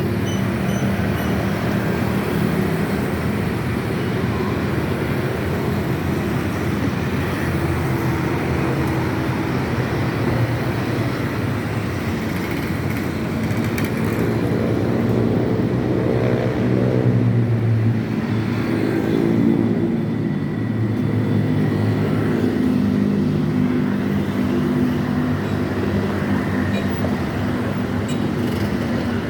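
Road traffic: a steady rush of vehicle engines and tyres, with one engine's note climbing and then falling away about halfway through, and again shortly after.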